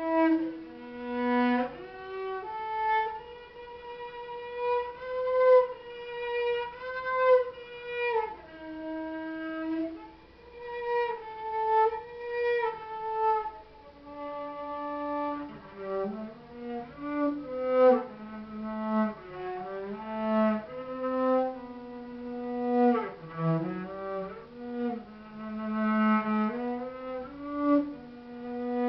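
Solo cello bowing a slow melody in its upper register, one line of long held notes joined by short runs of quicker notes.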